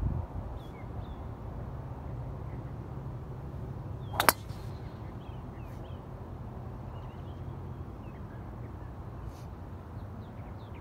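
Small birds chirping now and then over a steady low background rumble, with one sharp, ringing metallic click about four seconds in.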